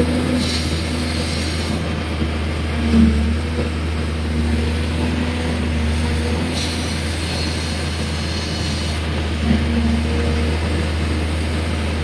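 Hydraulic excavator's diesel engine running steadily, with brief swells in engine load about three seconds in and again near the end.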